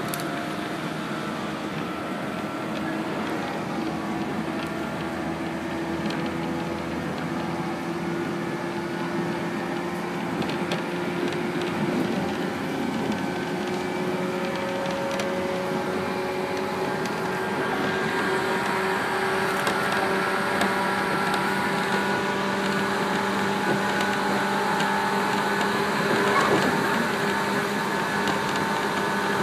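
A JR 115 series electric train running, heard from inside the passenger car: a steady rumble of wheels on rail with a motor and gear whine that climbs slowly in pitch as the train picks up speed.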